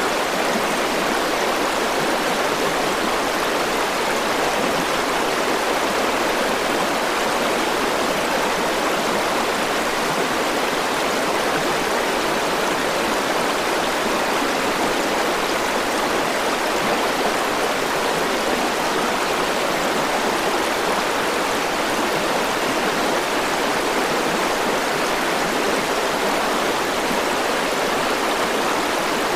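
River water flowing over rocks, a steady rushing and splashing with no change through the stretch.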